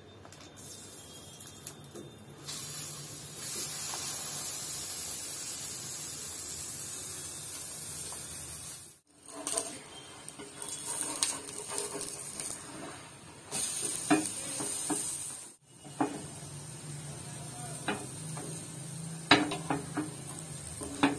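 Urad dal adai batter sizzling in hot oil on a flat tawa, a steady hiss that starts loud a couple of seconds in. The sizzle cuts out abruptly twice, and a spatula clicks and scrapes against the pan in the second half.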